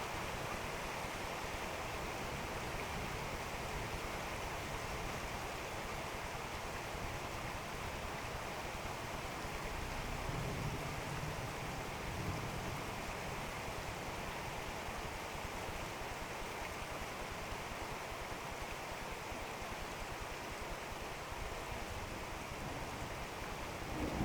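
Heavy rain falling steadily in a thunderstorm. A low rumble of distant thunder swells about ten seconds in.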